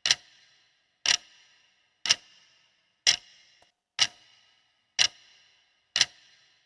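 Clock ticking as a quiz countdown timer: sharp ticks once a second, seven in all, each with a short fading ring.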